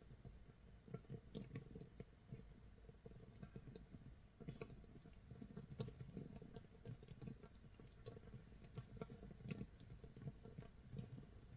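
Makgeolli starter mash (mitsul) fermenting in a jar, 24 hours in: a faint, dense, irregular crackle of tiny bubbles popping, like light rain or rice crust sizzling.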